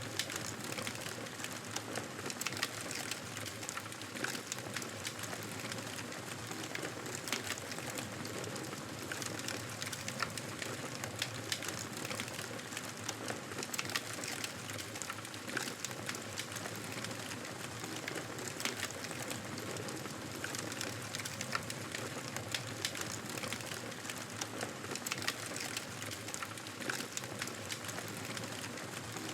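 Wood fire burning in a fireplace: a steady hiss of flames with frequent sharp crackles and pops from the burning logs.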